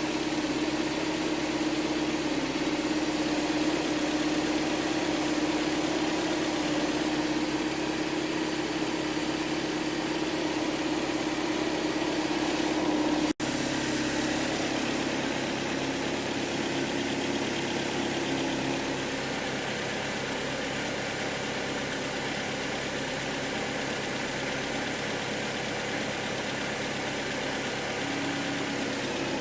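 Mercedes-Benz 124's 2.0-litre M102 four-cylinder engine with KE-Jetronic mechanical fuel injection, idling steadily. The sound breaks off for an instant about 13 seconds in, then carries on slightly quieter.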